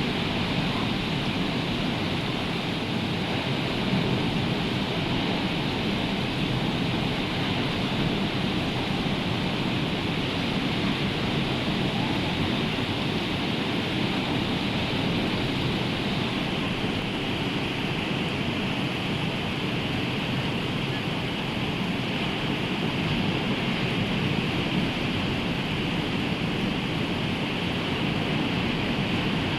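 Rough sea surf and rain: a steady, unbroken rush of noise without distinct wave crashes.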